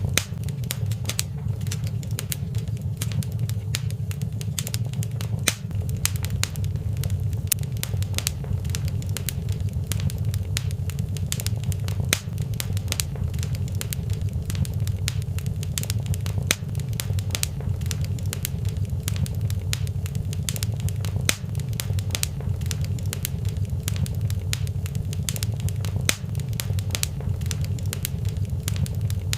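Wood fire burning in a fireplace, with a steady low rumble and many sharp crackles and pops scattered throughout.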